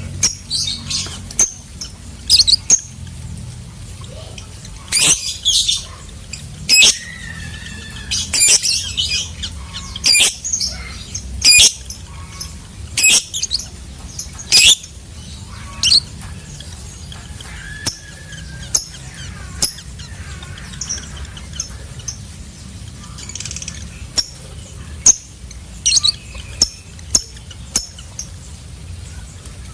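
Lovebird calling in short, shrill squawks and chirps, repeated at irregular intervals, some with brief sliding notes. A steady low hum runs underneath.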